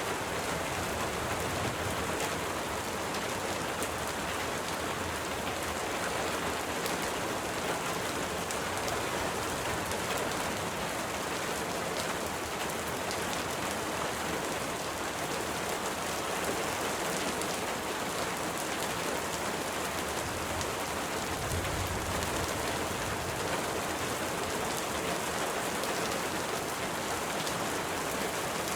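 Steady rain falling, an even hiss of many drops. A brief low rumble comes about three quarters of the way through.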